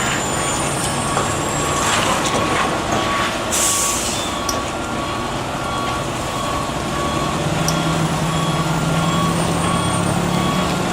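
Heavy truck engine running, with a short hiss of air brakes about three and a half seconds in; the engine note grows stronger about seven and a half seconds in.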